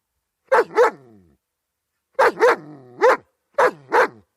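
German Shepherd dog barking: two quick barks about half a second in, then, after a pause of over a second, five more in short bunches.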